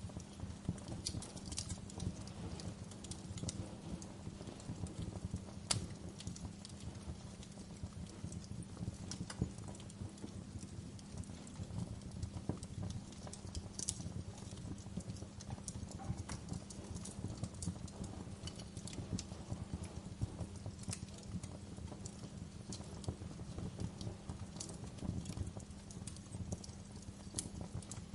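Wood fire crackling: a dense low rumble of small crackles with frequent sharp pops and a few louder snaps scattered irregularly throughout.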